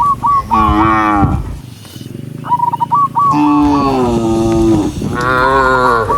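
Cattle mooing, three drawn-out moos in a row, with runs of short high chirps between them.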